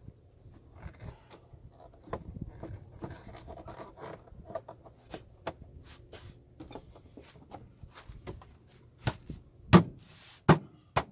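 Parts of a VW 2.5L engine's air filter housing and intake being fitted back together by hand: rubbing and scraping with scattered small clicks, then a few sharp snaps near the end.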